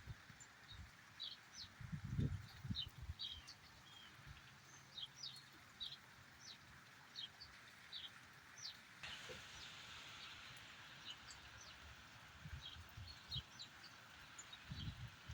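Light rain as a faint, steady hiss, with many short, high-pitched bird chirps scattered through it and a few dull low thumps. The rain hiss gets louder about nine seconds in.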